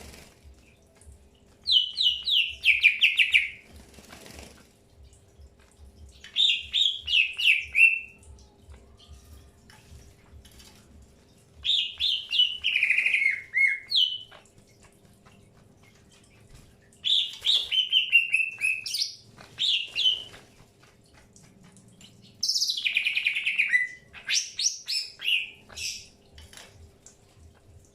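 Green leafbird (cucak hijau) in breeding condition singing five short bursts about every five seconds, each a rapid run of chirping notes falling from high to lower pitch.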